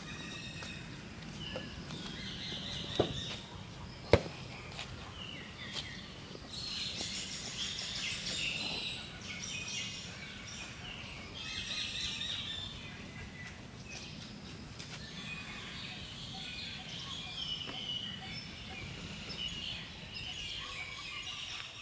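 Birds chirping over steady low background noise, with two sharp clicks about three and four seconds in.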